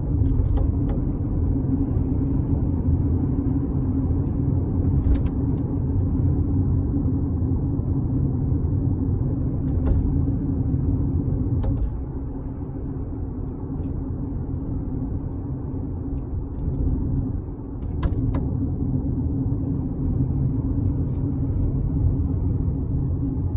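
Steady road and drivetrain rumble inside a new Toyota RAV4's cabin while driving, with short sharp clicks or creaks every few seconds. The clicks are the abnormal sunroof noise the owner is pointing out.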